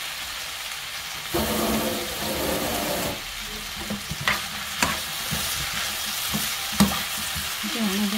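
Shredded potatoes and carrots sizzling in oil in a frying pan as they are stir-fried with a metal spoon, with a few sharp clicks of the spoon against the pan in the second half.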